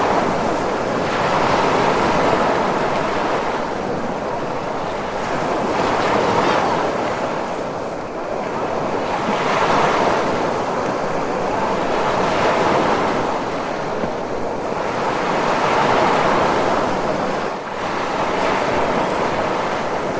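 Ocean surf: waves washing in and drawing back as a continuous rushing noise that swells and fades about every three to four seconds.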